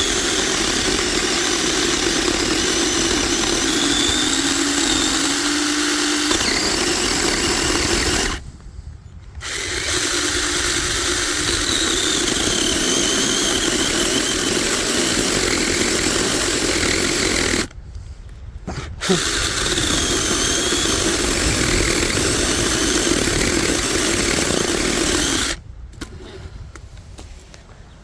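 Mini chainsaw cutting into a tree trunk in three long runs, stopping briefly about eight seconds in and again about eighteen seconds in. It falls much quieter near the end, leaving only a few faint clicks.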